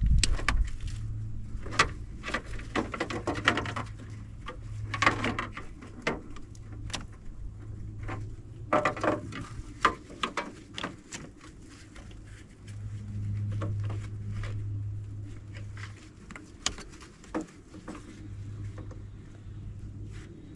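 Scattered clicks and knocks of hands and tools handling things, with a low hum that comes and goes in stretches of a few seconds.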